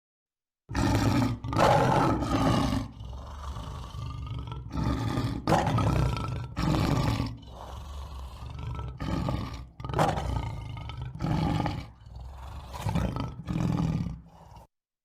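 A large animal calling over and over, a long series of loud pitched calls of about a second each, starting just under a second in.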